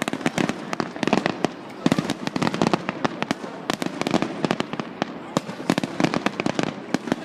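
Fireworks going off in quick succession: a dense run of sharp bangs and crackles, many per second.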